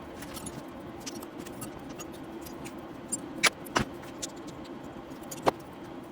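A few sharp metallic clicks and clinks, the loudest two a little past halfway and another near the end, over a steady low hum: metal pieces or tools being handled.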